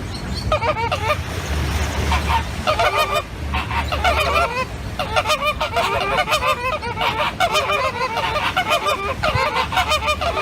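Geese honking, many short overlapping calls in quick succession, with a low rumble underneath at times.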